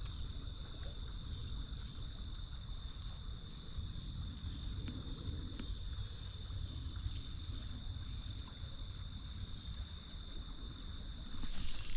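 Steady, unbroken insect trill holding two high pitches, over a faint low rumble of outdoor background noise.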